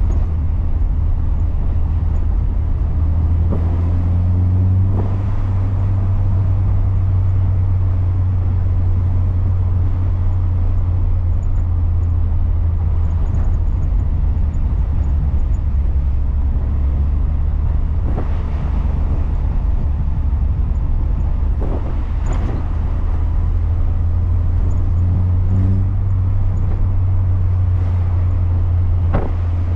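Lotus Elise Rover K-series four-cylinder engine in a Rover Metro, heard from inside the cabin while the car is driven, running with a steady low drone over tyre and road noise. The revs rise briefly about four seconds in, and there are a few short knocks.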